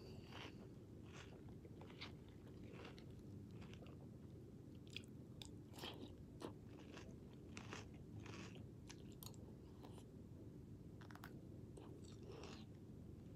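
A person chewing and crunching mouthfuls of cinnamon toast cereal (Cinnamon Toasters), quiet and close, with short irregular crunches.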